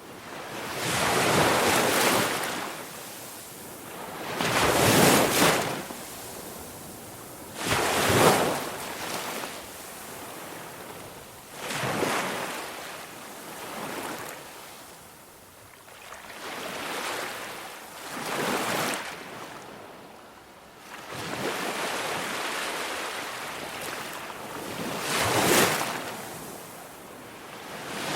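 Ocean waves breaking and washing back, a swell of surf about every three to four seconds.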